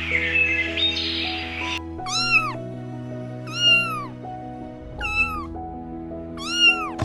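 A cat meowing four times, each meow rising then falling, about a second and a half apart, over background music with sustained notes.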